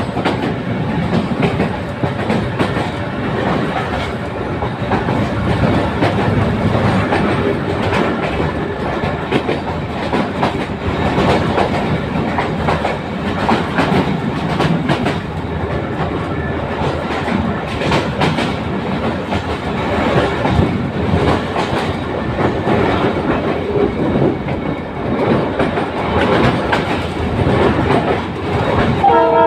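Passenger train hauled by a GM/EMD JT22 diesel locomotive running on the rails, its wheels clattering over rail joints in a steady loud rush. A horn starts sounding right at the end.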